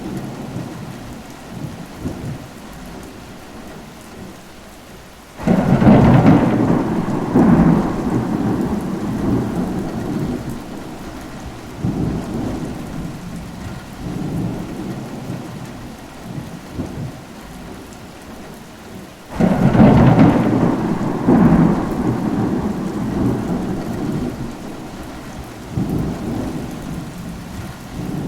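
Steady rainfall with thunder: two sudden loud claps, about a quarter of the way in and again about two thirds of the way in, each rolling away over several seconds, with smaller rumbles between.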